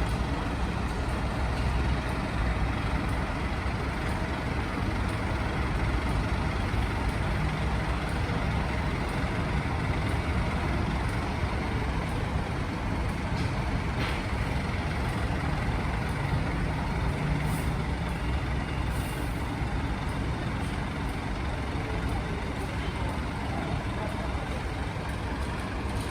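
Steady low rumble of a large vehicle's engine running at idle, with street noise around it.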